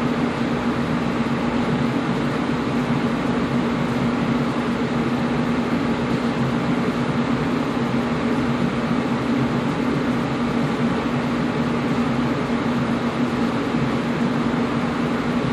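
Air conditioner running steadily: a constant rush of moving air with a steady low hum underneath.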